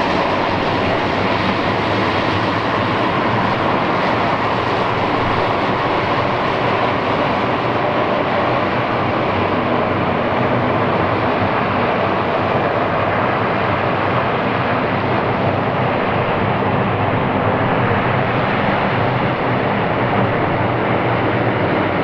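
Twin Pratt & Whitney Canada PT6A-67R turboprops of a Basler BT-67 turbine DC-3 running at taxi power close by: a loud, steady drone with a whooshing hiss, whose sharper top end slowly dulls.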